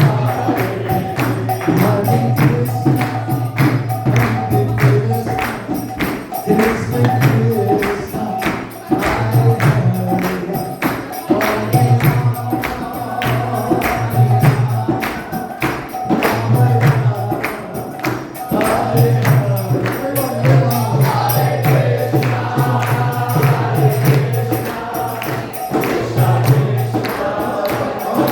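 Kirtan: a group singing a devotional chant, with hand cymbals striking a steady, even beat throughout.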